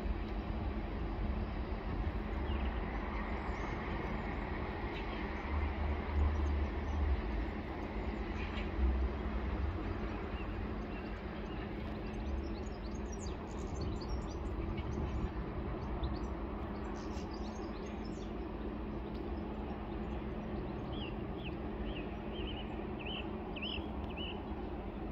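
Freight train of tank wagons running away into the distance, a steady low rumble of wheels on rail. Birds chirp in short bursts through the second half.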